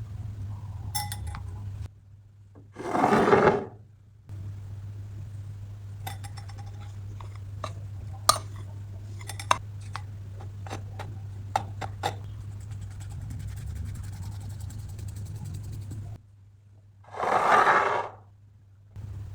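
A utensil clinking and scraping against a mug while batter ingredients are mixed, with a steady low hum. Two short, loud rushing noises stand out, about three seconds in and again near the end.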